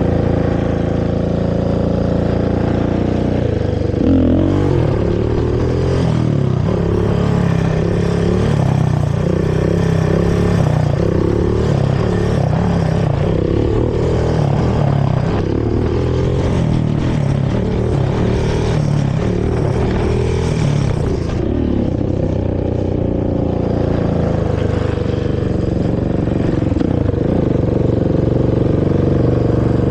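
Honda TRX450R quad's single-cylinder four-stroke engine on its stock exhaust. It runs steadily at first, then is revved up and down over and over from about four seconds in to about twenty seconds in, before settling steadier.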